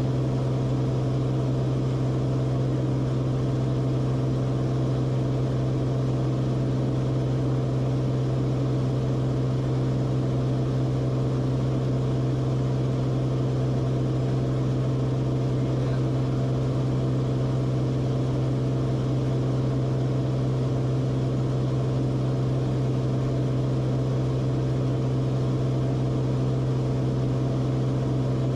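Cessna Corvalis TTX's turbocharged six-cylinder engine and propeller in flight, a steady, unchanging low drone.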